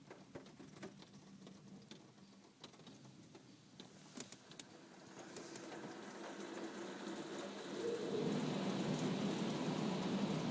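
Water from an automatic car wash pattering and dripping on a car, then spray building up and hitting steadily, louder from about eight seconds in.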